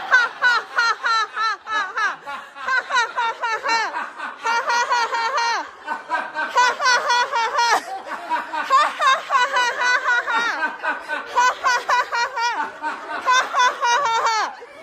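Sustained laughing-yoga laughter: rapid, high-pitched 'ha-ha' pulses forced out on the exhale, with brief breaks for breath about six seconds in and again near the end.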